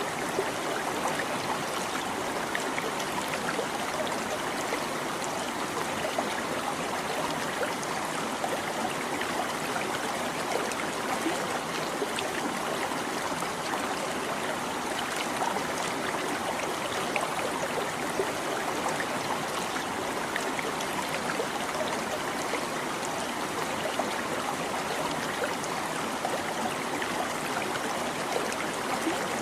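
Small stream babbling and trickling over stones, a steady even rush of water with small splashes throughout.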